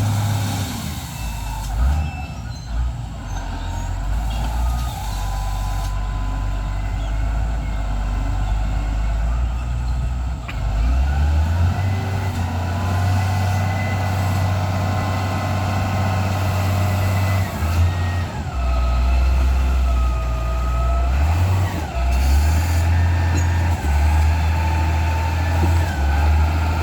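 Heavy diesel vehicle engine running and revving up and down several times, with a whine that rises and falls.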